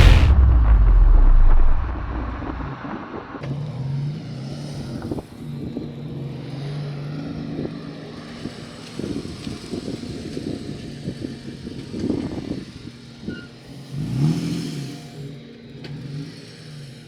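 A loud rush of noise that cuts off after about two seconds, then an engine running at lowish revs, its pitch rising and falling and fading in and out.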